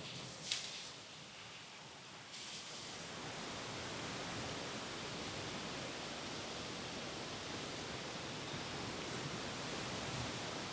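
Steady rushing outdoor noise that grows louder about two seconds in and then holds steady, with a short sharp rustle about half a second in.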